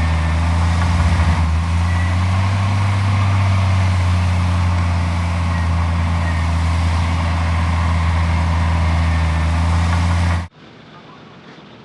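Heavy diesel engine of earthmoving machinery running steadily at a low, even pitch. It cuts off abruptly about ten seconds in, and a much quieter background follows.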